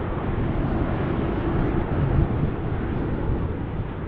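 Boeing 777-300ER's GE90 jet engines, a steady rumble that swells about halfway through, with wind noise on the microphone.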